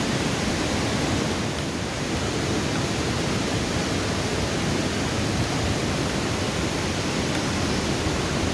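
Steady rushing of a river flowing, an even wash of water noise with no breaks.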